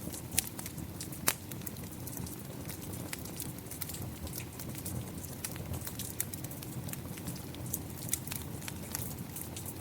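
Wood fire crackling, with irregular sharp pops (the loudest two within the first second and a half), over a steady low rush of rain.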